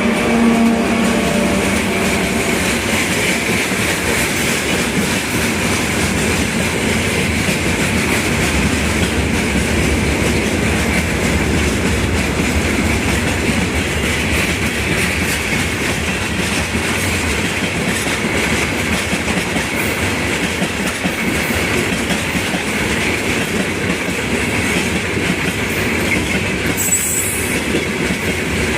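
Freight train wagons rolling past on steel wheels, clattering over rail joints with a steady high squeal from wheels on rail. A diesel locomotive's engine hum fades out in the first second.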